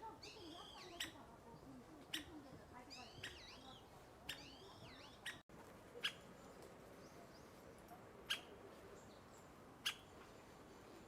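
Faint bird calls: groups of short arched chirps in the first half, and sharp single call notes every second or two.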